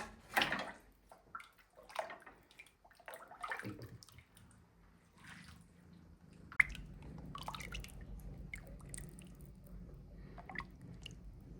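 Hot chicken broth being ladled and poured: irregular splashes and drips of liquid, with a sharp clink about six and a half seconds in.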